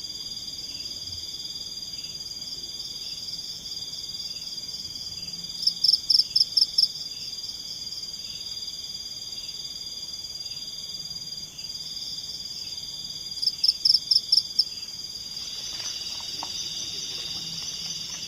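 Forest insect chorus: a steady, high-pitched, shrill buzzing with a faint repeating pulse. A louder call of about six rapid chirps breaks in twice, about six seconds in and again near fourteen seconds.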